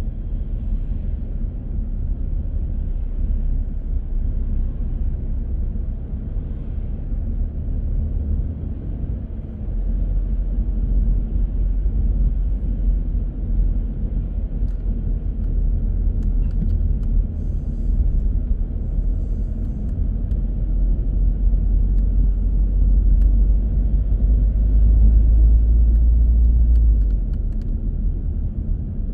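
A car driving on city streets: a steady low rumble of engine and road noise that grows louder about a third of the way in and eases off again near the end.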